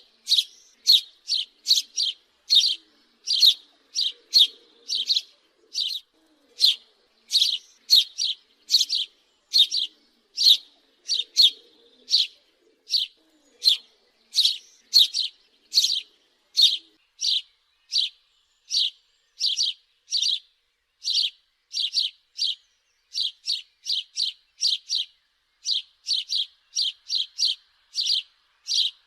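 House sparrow chirping over and over, short sharp chirps at about two a second, often in close pairs.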